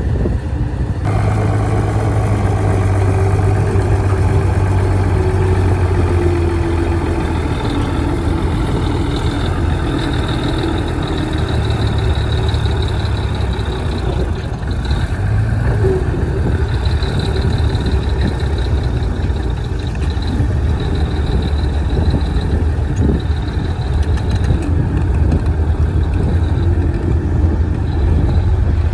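Heavy diesel engine of a bulldozer running steadily under work, with a thin high whine that comes and goes in the middle stretch.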